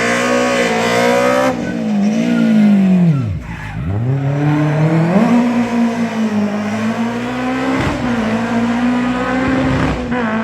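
Rally car engine at high revs. About three seconds in the revs drop sharply, then climb again and are held high.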